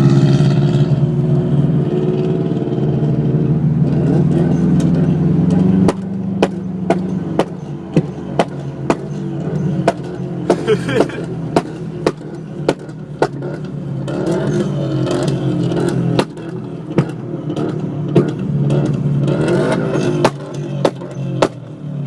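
A Subaru's exhaust running with a steady low drone that drops in level about six seconds in. From then on it gives sharp pops, roughly one or two a second.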